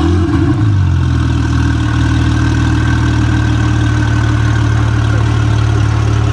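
Lykan HyperSport's twin-turbo flat-six engine idling steadily, settling down from a higher, unsteady note in the first second just after being started.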